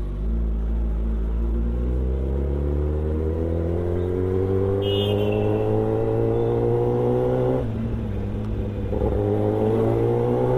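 Kawasaki ZX-10R's inline-four engine accelerating hard, its pitch rising steadily for about seven and a half seconds. It dips briefly at a gear change, then climbs again.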